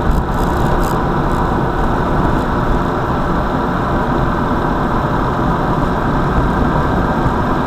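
A car running on the road, giving a steady low engine and road rumble with no sudden events.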